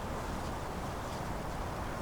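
Autumn wind blowing steadily, an even low rushing with no gusts or breaks.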